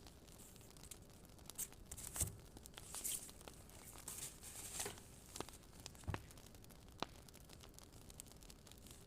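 Crackling fire, quiet and sparse: scattered pops and short bursts of crackle, with a couple of soft thumps.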